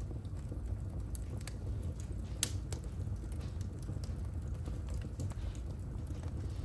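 Wood fire burning in a fireplace, crackling with scattered irregular pops over a steady low rumble of the flames. One louder pop comes about two and a half seconds in.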